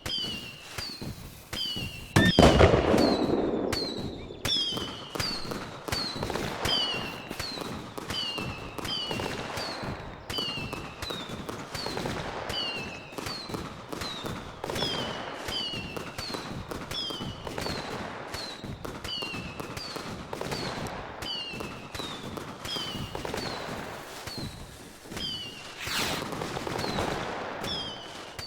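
Fireworks going off: a loud bang about two seconds in that fades out, another burst near the end, and scattered sharp pops and crackles in between.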